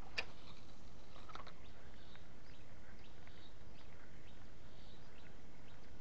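Steady outdoor background noise with faint, scattered short bird chirps, and a single light click just after the start.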